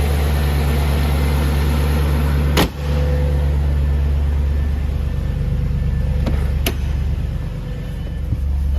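Audi RS6 engine idling with a steady low hum. There is one sharp click a little over two seconds in, and two fainter ticks later on.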